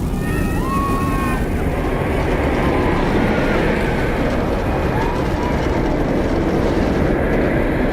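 Steady rumbling noise with no break, with a few short, faint whistling tones over it in the first seconds and again around the middle and near the end.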